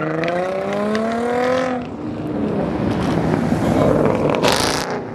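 A car engine accelerating, its note climbing steadily in pitch for about two seconds, then a rougher, noisier stretch of engine and exhaust with a short loud hiss about four and a half seconds in.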